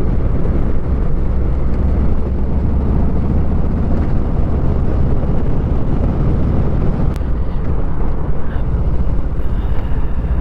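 Motorcycle being ridden, its engine running steadily under heavy wind noise.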